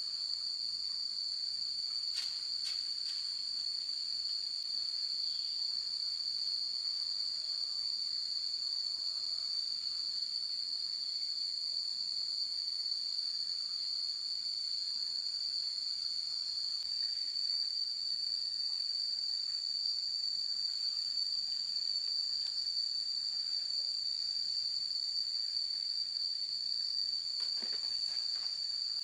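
Steady insect chorus: a continuous high-pitched shrill with no break, plus a couple of faint clicks about two seconds in and near the end.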